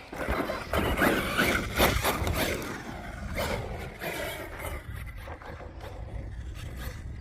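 Team Corally Kagama RC truck running over the dirt track, its tyres scrabbling and scraping with irregular knocks. It is loudest in the first few seconds, then dies down to a low, steady rumble of wind on the microphone.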